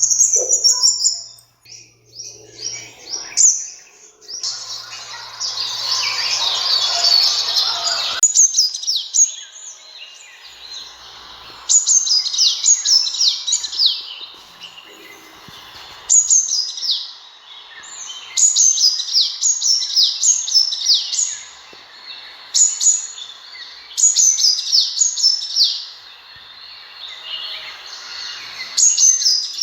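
Sunbird song: quick phrases of sharp, high-pitched notes, each note falling in pitch, in bursts of one to two seconds repeated every couple of seconds. A rough hiss runs under the song for a few seconds early on.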